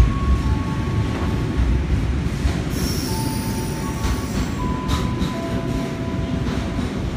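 Container freight train's wagons passing close by: a steady heavy rumble of wheels on the rails, with thin wheel squeals throughout and a higher squeal about three seconds in, plus a few knocks near the end.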